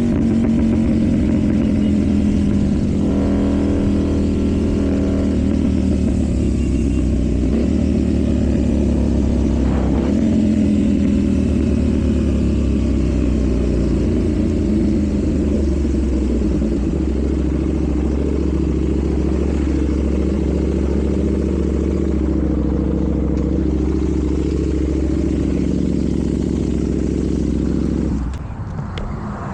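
KTM Duke 790's parallel-twin engine through an Arrow full exhaust system, heard from the rider's seat while riding, its pitch rising and falling with the throttle. The engine note falls away near the end.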